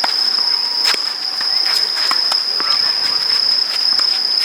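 Insects chirring in one steady high-pitched tone, with a few sharp knocks over it, the loudest about a second in.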